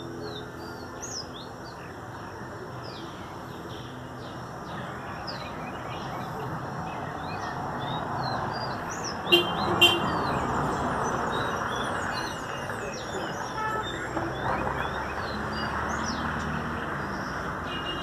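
Caged songbird chirping in many short, quick notes. Behind it, a steady noise that swells toward the middle, with two short, sharp loud sounds about halfway through.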